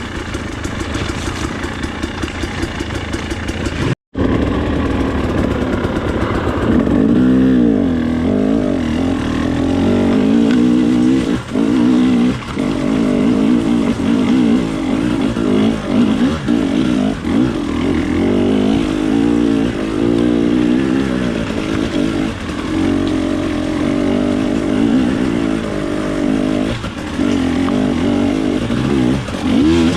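Off-road trail motorcycle engine running at a steady low speed, then, after a brief dropout about four seconds in, revving up and down repeatedly as the bike is ridden along a rough lane.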